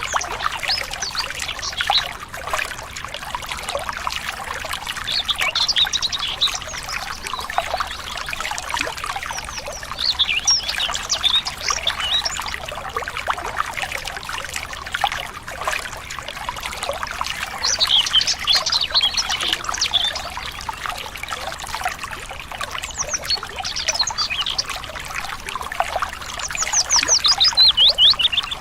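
Water trickling and splashing steadily, with songbirds singing short phrases of quick chirps every few seconds and a fast trill of falling notes near the end.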